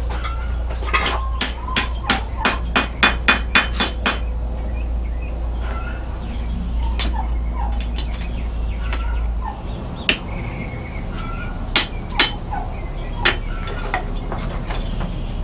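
Blacksmith's hammer striking hot steel on an anvil: a quick run of about a dozen blows, then a few single strikes after a pause. A steady low hum runs underneath and stops about two-thirds of the way through.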